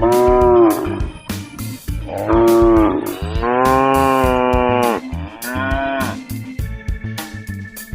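Four moos, the third one long, over background music with a steady beat.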